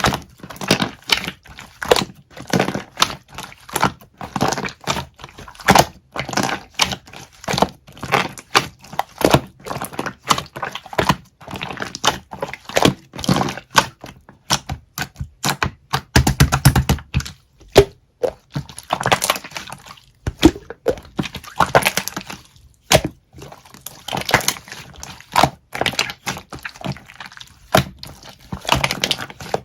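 Slime being squeezed, stretched and poked by hand, giving an irregular run of sharp clicks and pops, with a fuller squelch about halfway through.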